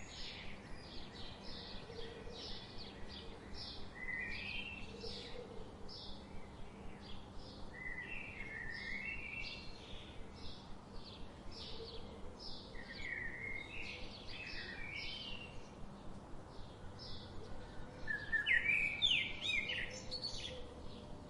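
Songbirds singing: one bird repeats a short high note about twice a second, while another sings short warbled phrases every few seconds, loudest near the end, over a steady background hiss.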